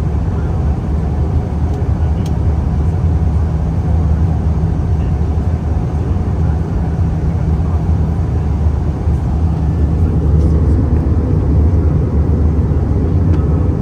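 Steady deep rumble of airflow and engines heard aboard an Airbus A320neo airliner on final approach, getting slightly louder near the end.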